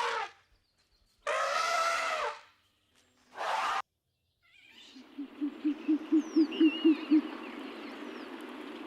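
A sequence of animal calls: two short, bright calls in the first half, then a quick run of low pulsed calls, about four a second, over a steady outdoor background with a few high bird chirps.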